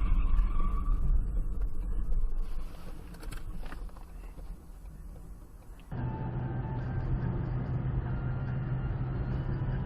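Car engine and road noise: a loud low rumble that fades over the first few seconds, then a sudden change about six seconds in to a steadier engine hum.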